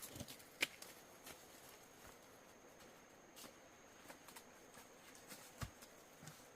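Near silence with a few scattered light clicks and knocks, the sharpest about half a second in and a low thump near the end, over a faint steady high whine.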